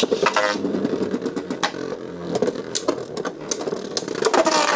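Beyblade Burst spinning tops whirring and scraping in a plastic stadium, with many sharp clacks as they hit each other and the stadium walls.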